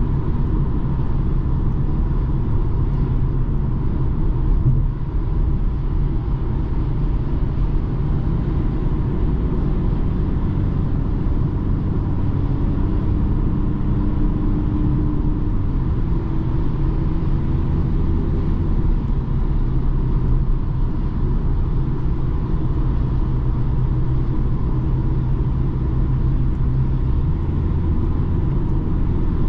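BMW 220d xDrive Gran Coupe on the move: its four-cylinder diesel and the tyres make a steady low rumble, with a faint steady higher tone above it. The engine note shifts slightly about halfway through.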